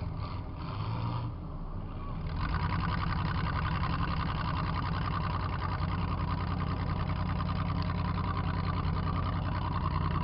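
Demolition derby car's engine running steadily, heard from inside the car, picking up a little about two seconds in.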